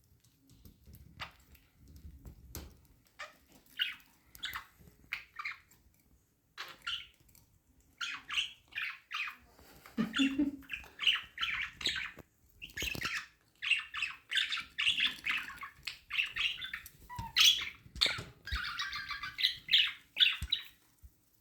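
Pet budgies chirping and chattering in short, scratchy calls, sparse at first and nearly continuous from about eight seconds in, with a few sharp clicks among them.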